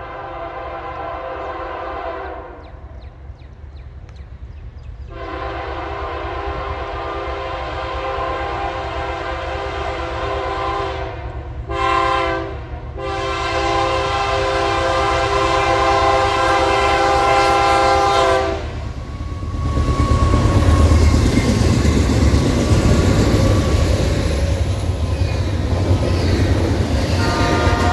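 Freight locomotive's multi-chime air horn sounding the grade-crossing signal: long, long, short, long. The lead unit, a BNSF Dash 9, then passes close by with a loud low engine rumble and the rolling clatter of wheels on rail, and the horn sounds briefly again near the end.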